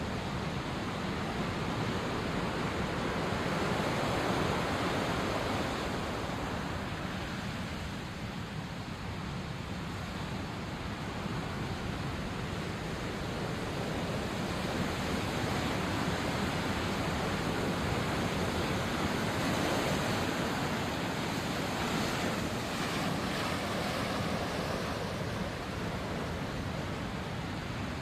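Sea waves washing onto the shore, the surf swelling and easing every few seconds, with wind on the microphone.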